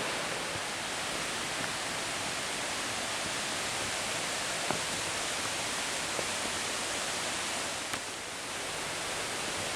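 Steady rush of water from a cascading mountain creek, with a few faint clicks.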